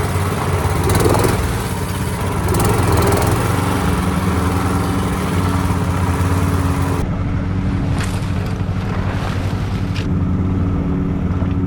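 Longtail mud motor on a jon boat running steadily, with a high hiss over it that cuts out suddenly about seven seconds in, followed by a few faint clicks.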